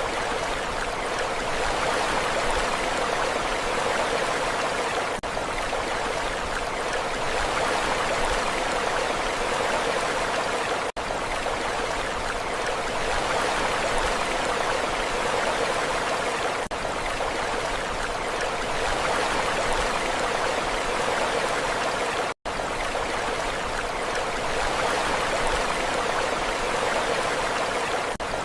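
Steady, even rush of sea water, with no separate wave swells standing out. Very brief drops in the sound come about every five to six seconds.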